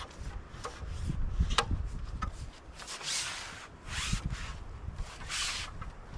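A snow-clearing tool scraping through snow, with three longer swishes near the end and a sharp click about a second and a half in, over a low rumble.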